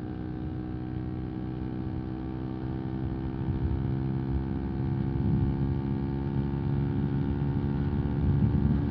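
A 125 cc single-cylinder motorcycle engine running at a steady speed, its exhaust drone holding one pitch and slowly growing louder.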